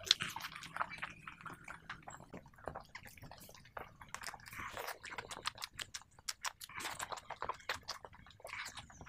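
Close, wet chewing and lip-smacking of a mouthful of pork and rice, full of many sharp clicks, eaten by hand.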